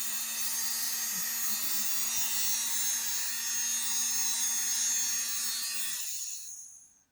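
Toy hair dryer's small motor running with a steady whir and a high whine, then winding down and stopping about six seconds in as its button is let go and it switches off.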